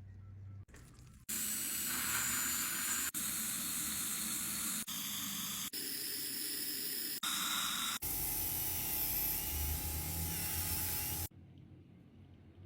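Loud hissing spray from dental treatment equipment, heard in several short pieces that cut off and restart abruptly; some pieces carry a faint high whine.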